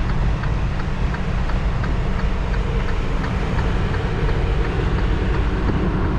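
Inside a semi-truck's cab: the diesel engine running at low speed with a steady low rumble, and the hazard flasher ticking evenly about twice a second.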